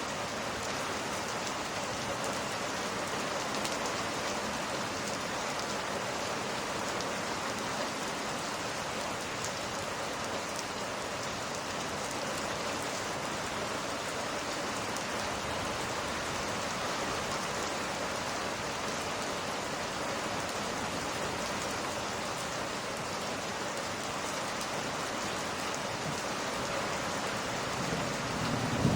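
Steady rain falling, an even hiss with no let-up; near the end a low rumble of thunder begins to build.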